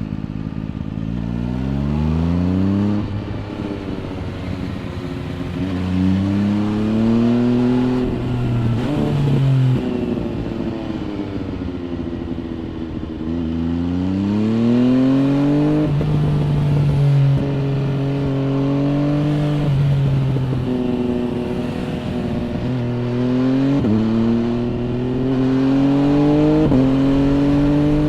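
MV Agusta Brutale 800 RR's inline three-cylinder engine through an MV Agusta Corse trio exhaust, ridden hard through the gears. The revs climb and drop sharply at each upshift, fall away as the throttle eases about halfway through, then climb again with quick upshifts near the end.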